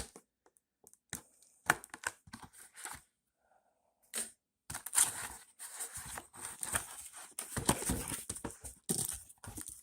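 A cardboard shipping box and its packing being opened by hand. There are scattered sharp clicks and scrapes, a brief near-silent pause, then continuous rustling and tearing from about five seconds in.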